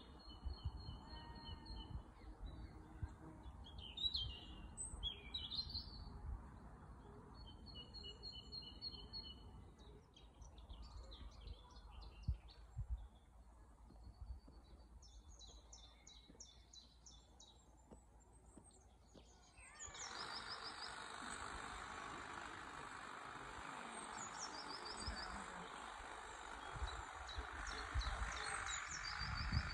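Songbirds singing: repeated short trills and chirps over low rumbling. About two-thirds of the way through, a steady rushing hiss starts abruptly and runs on under the birdsong.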